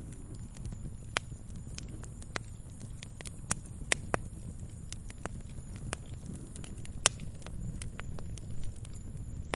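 Wood fire in a fireplace crackling, with irregular sharp pops over a steady low rumble of the flames. The loudest pops come about a second in, around four seconds in, and about seven seconds in.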